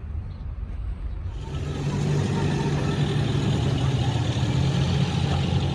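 A heavy engine running, growing louder about a second and a half in and then holding steady.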